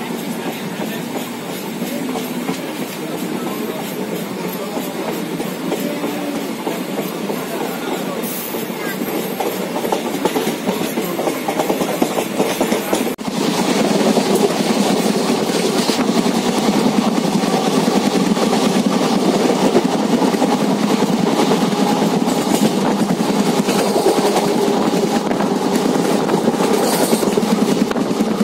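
Passenger train running at speed, heard from inside a coach at the window: a steady rumble and rattle of the wheels on the track. It grows suddenly louder about halfway through.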